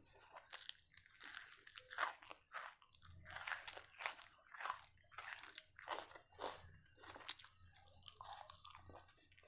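Close-up chewing of a mouthful of raw onion, with crisp, irregular crunches about every half second that thin out near the end.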